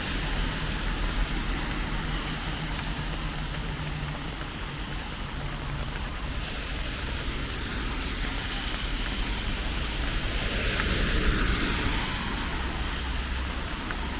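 Steady rain hiss over a low traffic rumble; the hiss swells for a couple of seconds about eleven seconds in.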